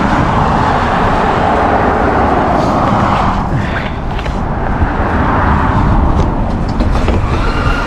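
Road traffic: vehicles passing with engine rumble and tyre noise, swelling and easing.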